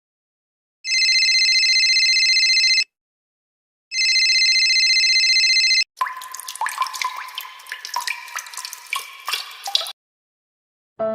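A rapidly pulsing telephone-style ringer, ringing twice for about two seconds each with a second's gap. Then about four seconds of irregular water drips and plops.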